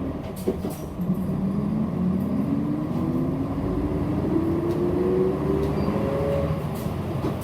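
City bus engine and drivetrain running under load, heard from inside the bus: a low rumble with a whine that rises steadily in pitch as the bus accelerates.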